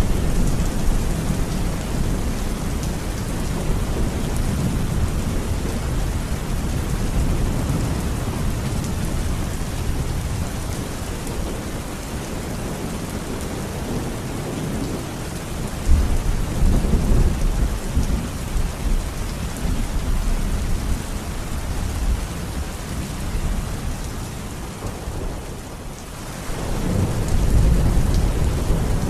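Steady rain falling, with rolling thunder underneath. Low rumbles start suddenly about halfway through and swell again near the end.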